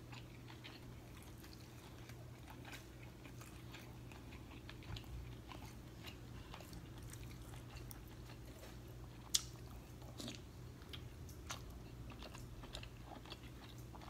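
Close-up mouth sounds of eating a green-lipped mussel off its shell: soft chewing and lip smacking with many small wet clicks, and one sharper click about nine seconds in. A low steady hum runs underneath.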